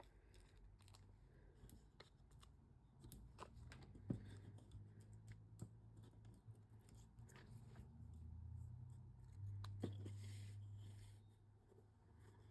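Faint handling of cardstock and small adhesive pieces: scattered light clicks and rustles, with a faint low hum between about 8 and 11 seconds in.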